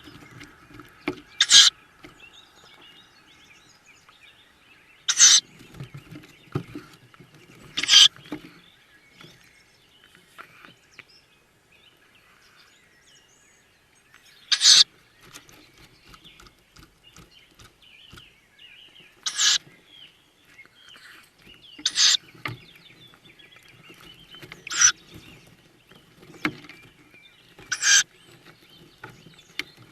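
Tawny owl chicks giving short, wheezy hissing begging calls, eight of them, a few seconds apart, over faint scuffling in the nest box and faint birdsong.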